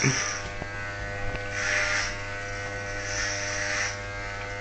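Electric hair clippers buzzing steadily, the hum swelling with a higher hiss three times as they pass through hair during a head shave.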